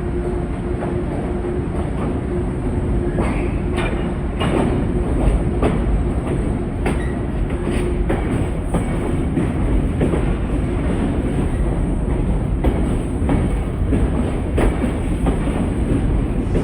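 Metro-North commuter train running on the rails: a steady rumble and hum with scattered sharp clacks as the wheels cross rail joints.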